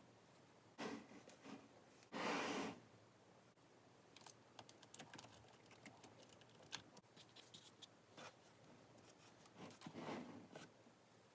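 Faint, scattered sharp clicks of small neodymium magnetic balls snapping together. A brief louder rattle comes about two seconds in and another near the end.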